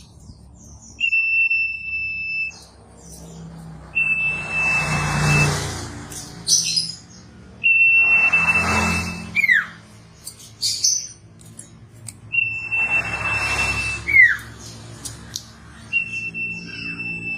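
A male sirtu songbird singing: long, steady, high whistles, each ending in a quick falling note, repeated about every four seconds. A rushing hiss swells up along with several of the whistles.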